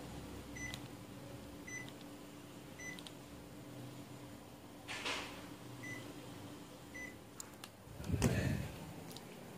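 Panasonic mini split indoor unit giving short single high beeps, five in all: three about a second apart, then two more after a pause. These are the unit's acknowledgement beeps as remote commands are received. Under them runs a steady low hum, and about 8 s in there is a brief, louder rustling noise.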